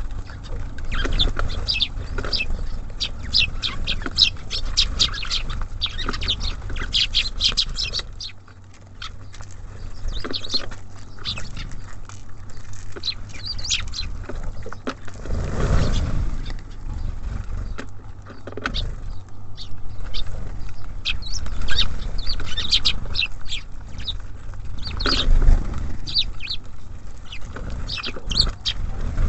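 Small songbirds at a feeder chirping in quick, short calls, thick with chirps at first and again near the end. A louder rustling thump comes just past the middle, and another near the end.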